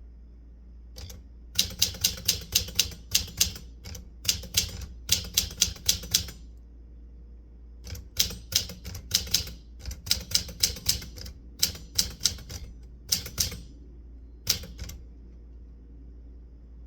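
Typewriter keys striking in quick runs of several strokes a second, with a pause of about two seconds between two bursts of typing.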